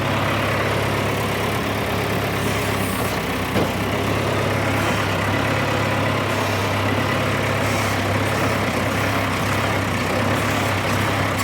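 John Deere 401-C loader tractor's engine running steadily, with one short knock about three and a half seconds in.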